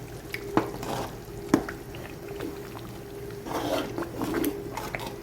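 A spoon clinks a few times against a pot over liquid sounds from boiling stew being scooped for tasting, with a steady hum underneath.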